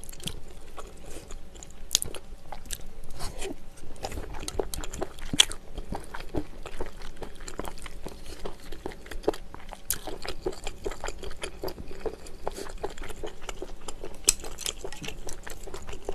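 Close-miked chewing and wet mouth sounds of a person eating spoonfuls of rice mixed with snail doenjang stew: a dense run of small smacks and crunches, with a few sharper clicks.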